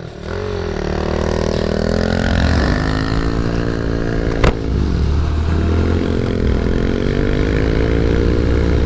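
A small single-cylinder four-stroke mini motorcycle engine revving as the bike pulls away. Its pitch climbs, drops back twice and climbs again. There is one sharp click about four and a half seconds in.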